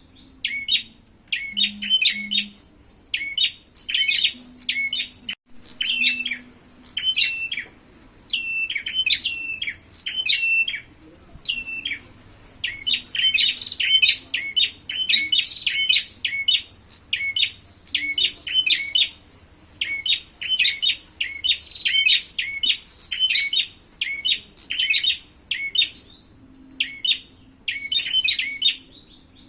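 Prenjak songbirds calling in fast, repeated bursts of sharp chirps, the agitated back-and-forth calling of prenjak fighting, with only brief pauses between phrases.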